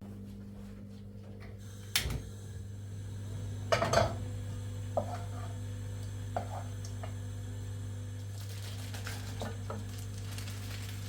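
Scattered clinks and knocks of kitchenware, a few strong ones about two and four seconds in and more near the end, over a steady low hum.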